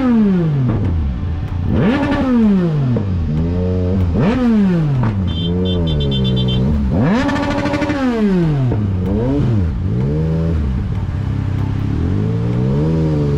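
Motorcycle engine revving, its pitch climbing and dropping again and again as the throttle is opened and closed. A run of short high beeps sounds about five to seven seconds in.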